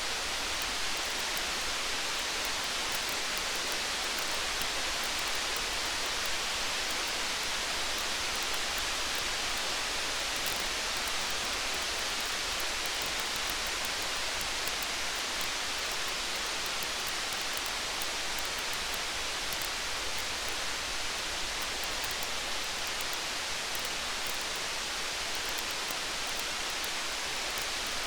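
Steady rain, an even hiss with many faint small ticks and crackles mixed in: a rain-and-campfire ambience.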